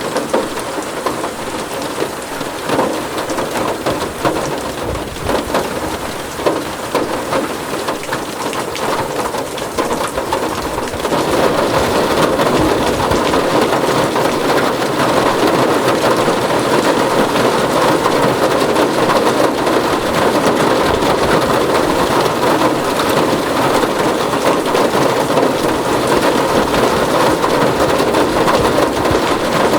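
Rain falling on a tin roof, at first as a lighter patter of separate drops, then about eleven seconds in turning heavier and louder into a dense, steady downpour.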